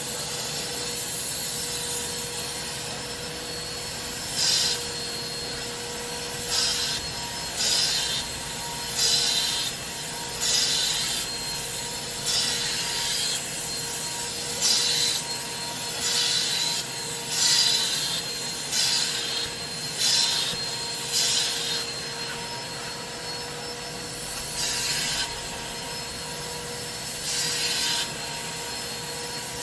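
Carpet cleaning equipment working fabric: a steady machine hum with repeated short hissing, rubbing strokes, one every second or two, as the cleaning tool is passed over the material.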